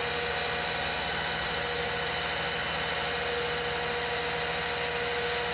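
Heavy vehicle engine running steadily at constant speed, with no change in pitch or level.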